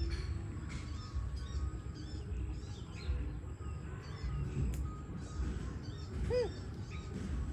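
Small birds chirping repeatedly over a steady low rumble, with one short rising-then-falling call about six seconds in.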